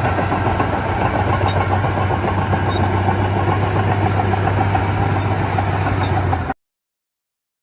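A radio-controlled construction machine's engine sound running steadily at idle, with an even low hum and a fast regular pulsing. It cuts off suddenly near the end.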